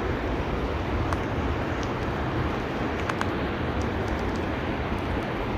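Steady roar of a rushing underground river inside a cave, with a few faint clicks over it.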